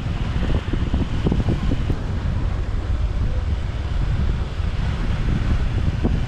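Wind buffeting the microphone over the steady rumble of a motorbike riding through city traffic, with a few short knocks about a second in.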